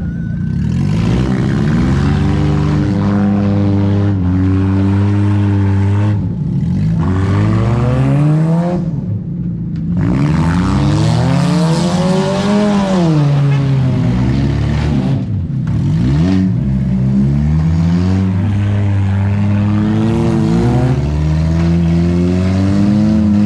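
Engines of several demolition derby cars revving up and dropping back over and over, loud, the pitch sweeping up and down every few seconds, with some overlapping.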